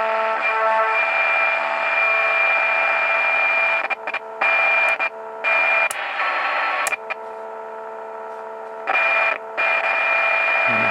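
Seven-transistor Marconi 2004 radio's speaker giving out a hissing, whistling signal that cuts out and back in abruptly several times partway through. The dropouts are put down to a dirty band switch.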